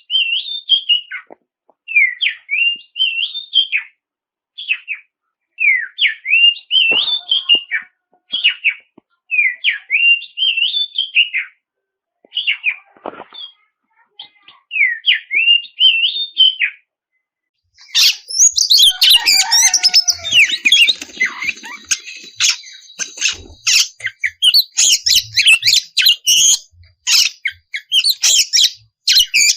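Oriental magpie-robin (kacer) singing: short whistled phrases repeated with brief pauses, then from about 18 s in a fast, unbroken outpouring of harsher, scratchier notes.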